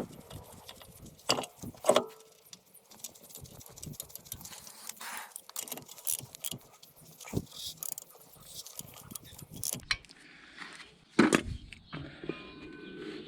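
Scattered light metallic clinks and rattles of hand tools and a bolt being handled on a car's front brake and hub assembly. There are sharper knocks about a second and two seconds in, and the loudest one about eleven seconds in.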